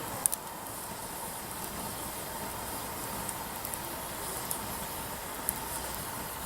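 Wood fire burning with a steady rushing sound and scattered sharp crackles and pops of burning firewood, the loudest pop about a quarter second in and another near the end.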